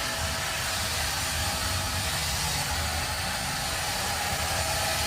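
Vacuum cleaner motor running steadily: an even rushing noise with a faint steady whine.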